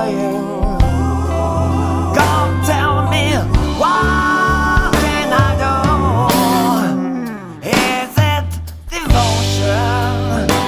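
Studio-recorded rock song from a band: a steady bass line and drums under held, wavering melody notes from voice and guitar. The band thins out briefly twice in the second half, then comes back in.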